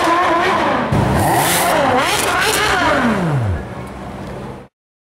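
Sports car engine revving hard, its pitch sweeping up and down several times; a last rev falls away about three and a half seconds in, leaving quieter noise that cuts off near the end.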